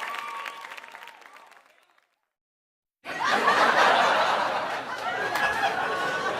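Stock sound effects: crowd applause and cheering fading out over about two seconds, a second of silence, then a group of people laughing and chuckling.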